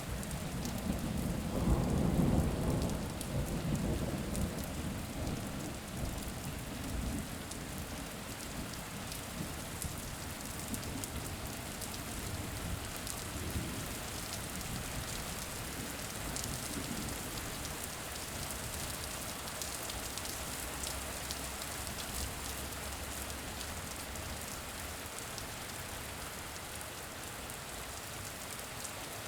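Steady rain falling, with a low roll of thunder in the first few seconds that fades away.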